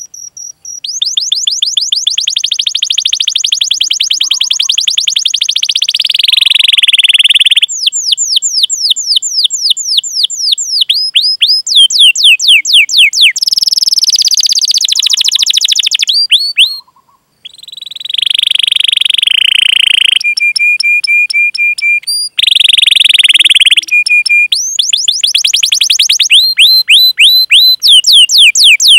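Domestic canary singing a long, loud song of rapid, high, falling chirps and rolling trills, changing phrase every few seconds, with a brief break about seventeen seconds in.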